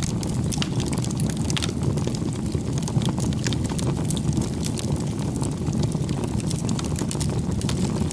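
Wood fire burning: a steady low rush of flames with frequent sharp crackles and pops from the wood.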